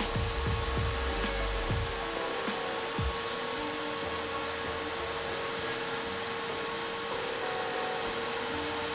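Homemade CNC router's spindle running at high speed with a steady whine while it cuts into MDF, with a low rumble from the machine during the first two seconds.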